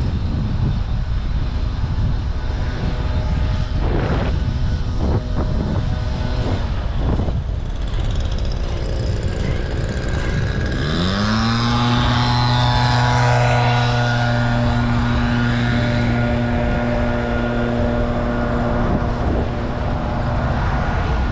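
Wind buffeting the microphone while cycling. About ten seconds in, a loud low mechanical drone rises in pitch, then holds steady for about eight seconds before fading out.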